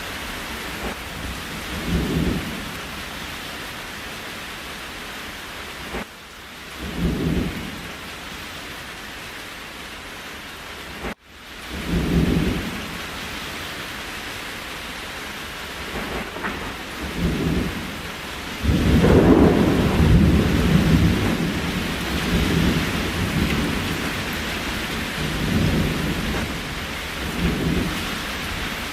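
Steady rain with repeated low rumbles of thunder; the longest and loudest rolls through the middle third. The sound drops out abruptly twice in the first half.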